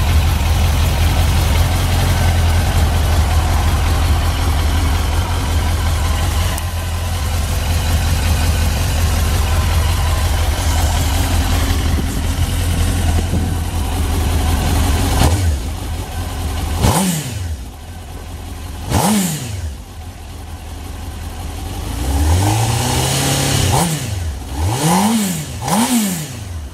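Suzuki GSX-R1000's inline-four engine idling steadily, then blipped about five times in the last ten seconds, each rev rising quickly and falling back.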